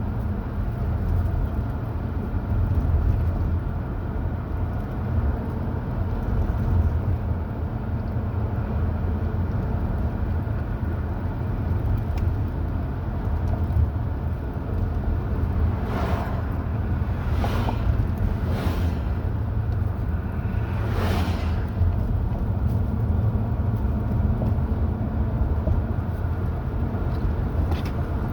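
Car driving at road speed: a steady low rumble of engine and tyre noise, with four brief whooshes a little past halfway.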